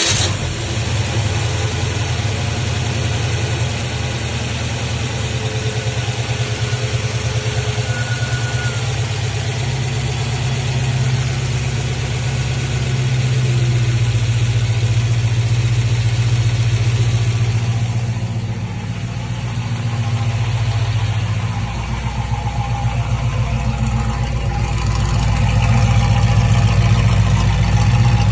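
1965 Ford Mustang K-Code 289 High Performance V8 cold start: the engine fires at once and settles into a steady idle. The running level sags slightly about two-thirds of the way through and picks up again near the end.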